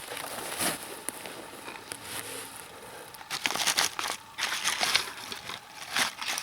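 Hand saw cutting wood, with quieter rustling first and then a run of sawing strokes, about one or two a second, from about three seconds in.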